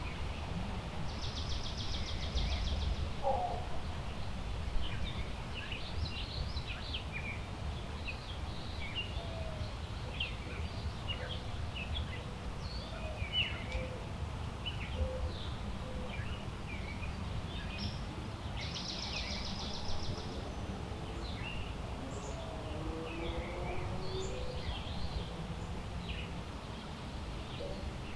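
Several birds chirping and calling in woodland, with two short buzzy trills about seventeen seconds apart, over a steady low rumble of wind.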